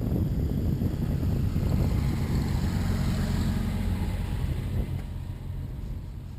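Wind rumbling on the microphone during a bicycle ride, with a wider hiss that swells a little to about three seconds in and eases off near the end.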